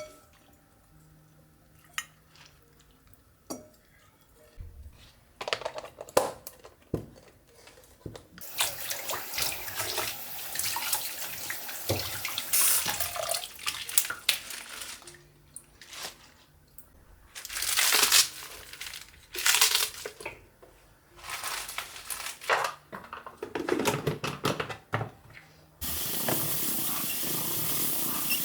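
Water from a kitchen tap running into a sink and splashing, in on-and-off bursts with a few light knocks, then running steadily near the end.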